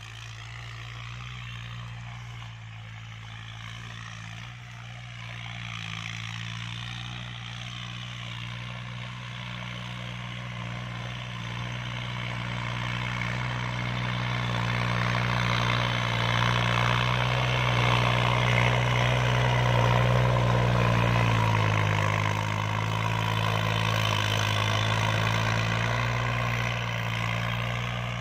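Kubota L3218 tractor's diesel engine working under load with a rotary tiller, growing steadily louder as it comes closer, loudest about two-thirds of the way through. Its pitch dips briefly near the loudest point, then it eases slightly.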